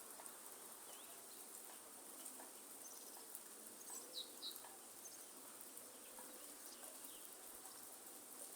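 Light rain falling in a forest: a soft, steady patter with scattered drops, a steady high hiss, and a few short bird chirps about four seconds in.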